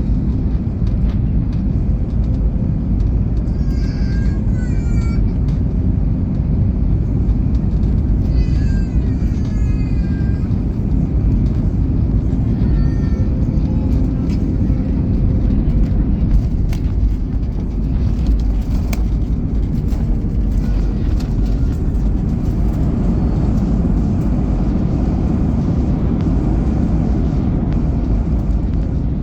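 Steady low rumble of an Airbus A321neo's cabin, heard from inside the passenger cabin. Faint voices rise briefly about four and nine seconds in.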